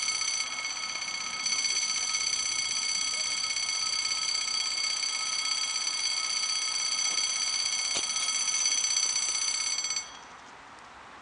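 Electric railway warning bell ringing continuously with a fast rattling tone, then cutting off suddenly about ten seconds in: the departure signal before a train's doors close.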